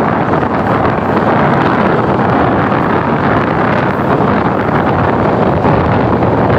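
Wind buffeting the microphone over the running noise of a broad-gauge passenger train moving at speed. It is a steady, even rush of noise with no distinct clickety-clack rhythm from the rail joints.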